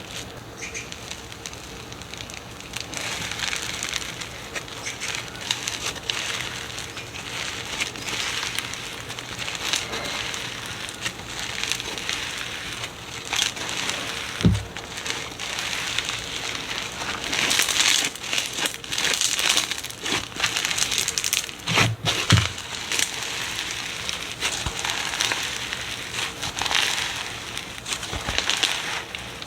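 Slime being squeezed and pressed by hand, giving a dense, continuous crackling of tiny pops and crinkles, with a few soft low thumps about halfway through.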